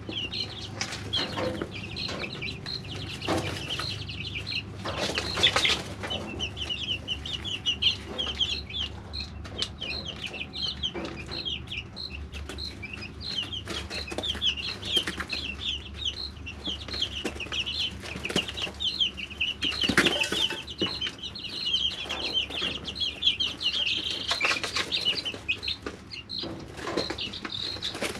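A brooder of three-week-old chicks peeping almost continuously in a dense chorus of short, high chirps. Brief rustles and wing flaps come now and then, with the loudest about five seconds in and about twenty seconds in. A steady low hum sits underneath.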